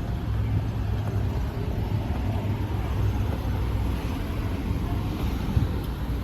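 Steady low rumble of road traffic, with no single distinct event standing out.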